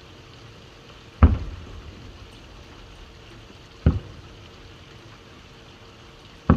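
Aerial firework shells bursting at a distance: three booms about two and a half seconds apart, each with a short trailing echo. Steady rain hiss runs underneath.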